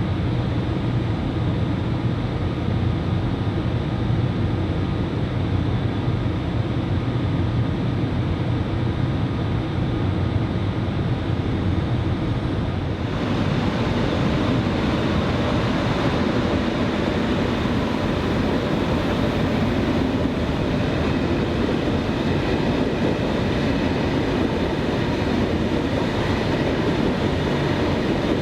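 Train running at a railway station: a steady low rumble with faint steady whine tones. About halfway through the sound changes abruptly and gains more hiss.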